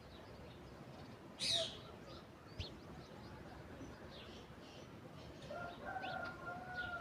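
Bird calls: one loud, sharp falling chirp about a second and a half in, a few faint chirps, and a longer drawn-out call near the end.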